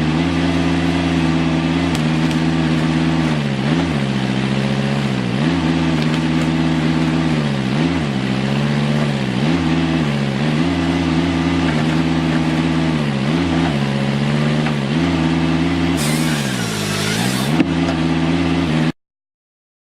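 ATV engine working, its pitch repeatedly dropping and rising as it revs under changing load. A burst of hiss comes in near the end, and then the sound cuts off abruptly to silence.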